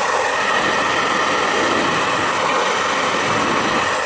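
Repaired hair dryer running with its heating element on, its fan motor and airflow making a steady rush with a steady high whine; the heater is now working.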